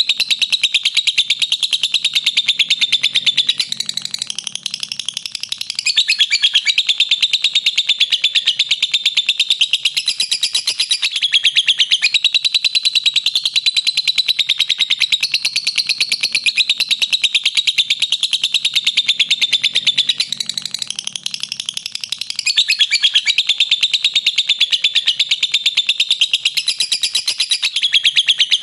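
Lovebird giving its long 'ngekek' chatter: an unbroken run of very rapid, shrill chirps that dips briefly about four seconds in and again around twenty-one seconds in.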